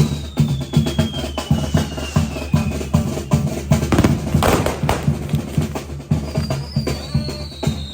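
Mexican village wind band playing with a steady bass-drum beat, over which firework whistles slide down in pitch, one fading about two and a half seconds in and another starting near six seconds, with a sharp firework bang about halfway through.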